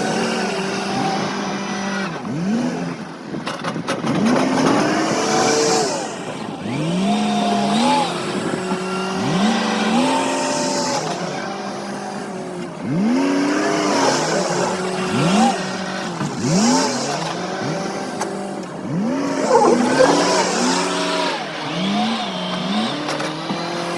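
Engines of the machinery working the corn pile, revving up and falling back again and again over a steady low engine hum.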